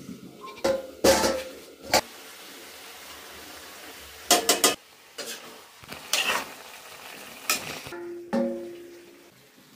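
Chicken legs frying in a pan on a gas stove with a steady sizzle. Steel bowls and a utensil clank and scrape against the pan several times as chopped tomatoes are tipped in and stirred.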